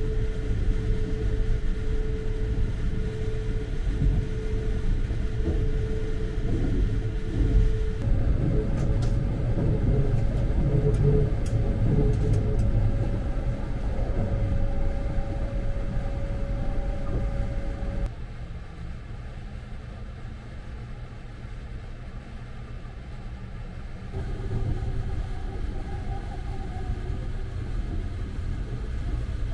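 Sunrise Express, a 285 series electric sleeper train, running, heard from inside the carriage: a steady low rumble of wheels on track with a steady hum over it. It turns abruptly quieter a little past halfway and louder again near the end.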